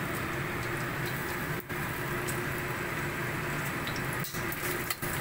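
Minced garlic and chopped dried shrimp sizzling in hot vegetable oil in a steel wok, a steady frying sound with small crackles.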